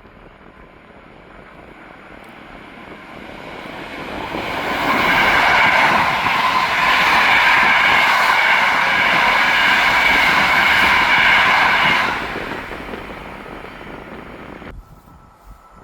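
A train passing close by: the rumble of wheels on rail builds, stays loud for about seven seconds with a steady high whine over it, then fades away.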